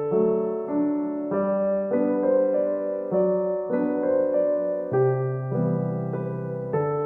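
Background music: a gentle solo piano piece, notes and chords changing about every half second to a second.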